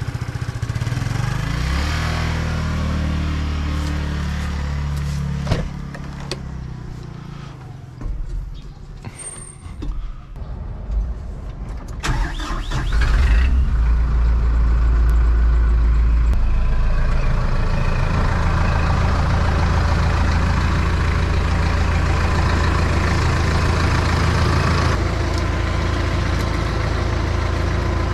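Kubota M135A tractor's diesel engine running with its pitch shifting, then dropping away about six seconds in, leaving a few seconds of clicks and knocks. Around twelve seconds in it starts again with a loud low surge and settles into a steady idle.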